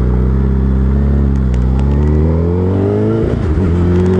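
Suzuki Hayabusa's inline-four engine pulling steadily. Its pitch dips slightly about a second in, then rises steadily for about two seconds, drops suddenly about three seconds in, and holds steady after that.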